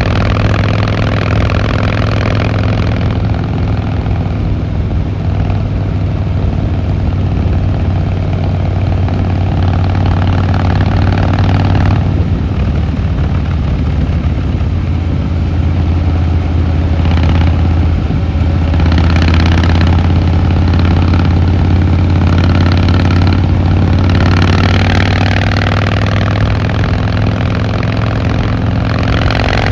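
Harley-Davidson Fat Boy Lo's V-twin engine running steadily with a deep, even exhaust note. The note shifts slightly about halfway through, and a few short rushes of noise come in the second half.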